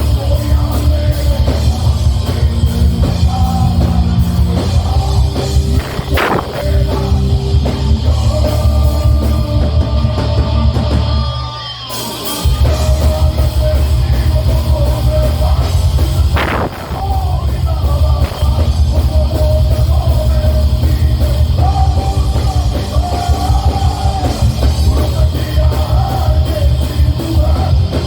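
Heavy metal band playing live, with distorted guitars over a pounding bass and drum kit. The sound thins out briefly about halfway through before the full band crashes back in.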